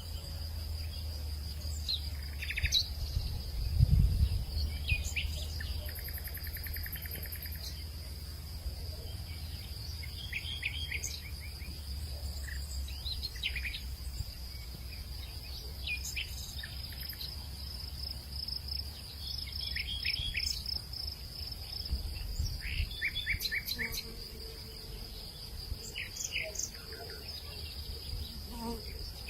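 Crickets or similar insects give a steady, high, continuous trill while birds chirp in short bursts every few seconds. Under them runs a low rumble of wind, which swells briefly about four seconds in.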